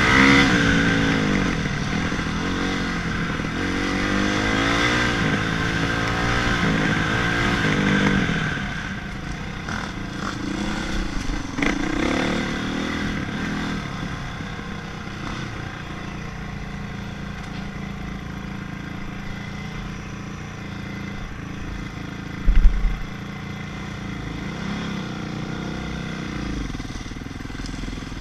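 Honda CRF450 motocross bike's single-cylinder four-stroke engine revving up and down repeatedly for about eight seconds. It then settles to lower, steadier revs with a few brief rises. A loud thump comes about 22 seconds in.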